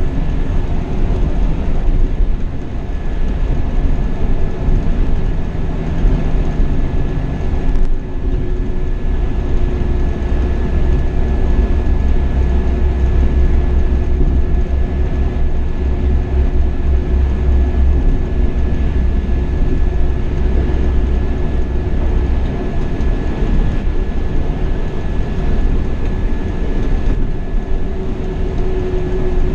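Marcopolo Paradiso 1800 DD double-decker coach on a Scania K420 chassis driving along a highway: steady diesel engine drone and road noise with a faint steady whine, heard from inside the cab. A deeper rumble swells for several seconds in the middle.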